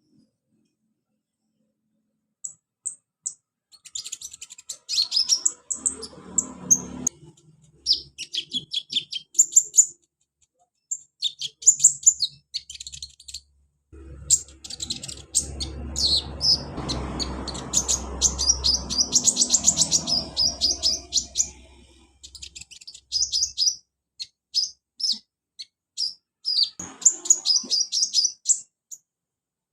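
Kolibri ninja (konin) sunbird song: bursts of rapid, high, thin chirps and twitters with short pauses between them. A low rushing noise lies under the calls through the middle stretch.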